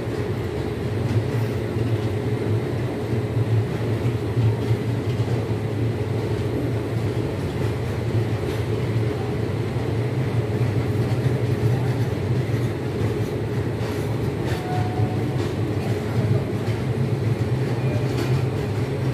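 Indian Railways passenger coaches rolling past as the train pulls out of the station, wheels on the rails making a steady low rumble.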